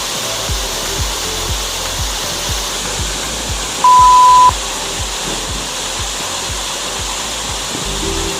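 Steady rush of a large waterfall's falling water, with a soft music beat of about two thumps a second underneath. About four seconds in, a single loud high beep lasts about half a second.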